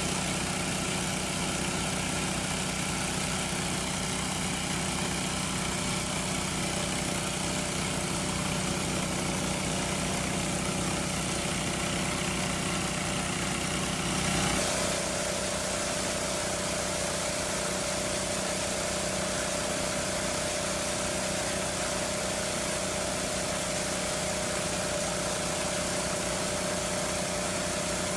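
Small engine-driven water pump running steadily, with a slight change in its tone about halfway through.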